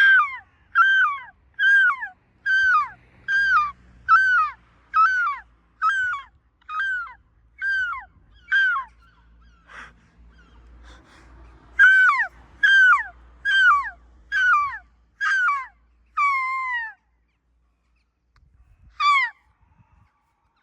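A seagull calling loudly and over and over, a run of about eleven falling yelping calls a little under one a second, a short pause, then six more with the last one drawn out, and one more call near the end.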